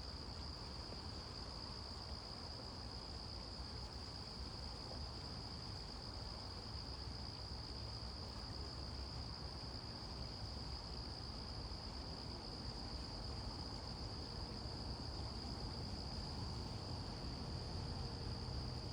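A steady, unbroken high-pitched drone from a chorus of insects, holding one pitch the whole time.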